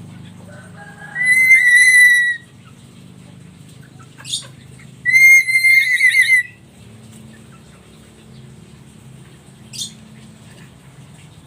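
Black-capped lory giving two loud, drawn-out whistles that break into a wavering trill at the end, the first about a second in and the second around five seconds, with short sharp chirps between and near the end, over a faint low hum.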